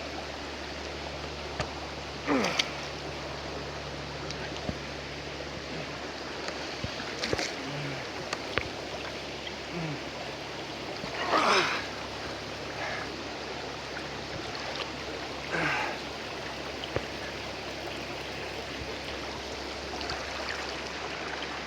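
Creek water flowing and rushing steadily over rocks, with four short, louder splashy sounds scattered through it.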